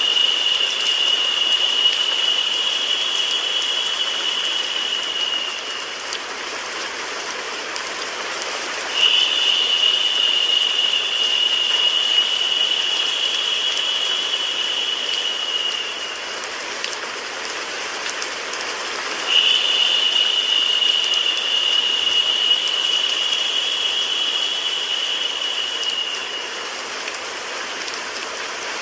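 Steady recorded rain mixed with white-noise hiss. A brighter, higher hiss swells in three times, each lasting about seven seconds and returning about every ten seconds.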